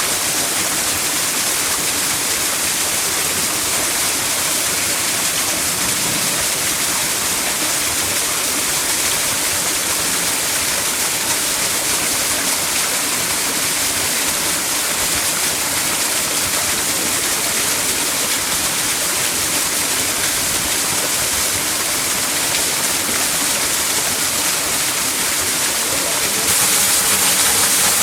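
Waterfall pouring steadily, a constant rush of falling water. It gets louder and brighter about 26 seconds in.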